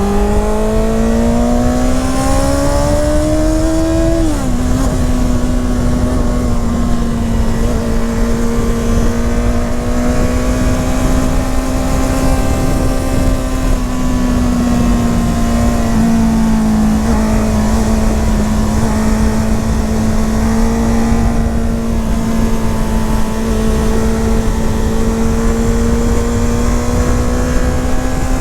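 Honda CBR650R's inline-four engine and exhaust heard from on board, pulling up through the revs for about four seconds, dropping sharply in pitch at an upshift, then holding a fairly steady cruise with small rises and falls, and climbing again near the end. Low wind rush underneath.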